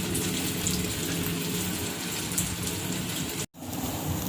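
Chicken shami kababs shallow-frying in hot oil, a steady crackling sizzle. It breaks off for an instant about three and a half seconds in, then carries on.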